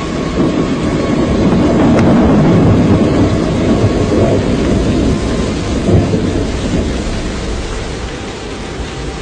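Storm noise: a deep, rumbling roar of wind and thunder-like rumble that swells over the first few seconds and eases off near the end.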